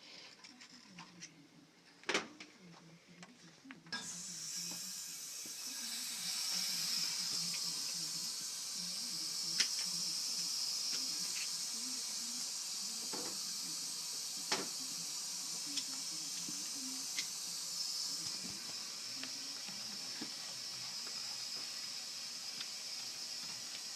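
A sharp knock about two seconds in, then water is let into the steam boiler piping: a steady hiss of water rushing through an opened valve starts suddenly about four seconds in, with scattered small clicks.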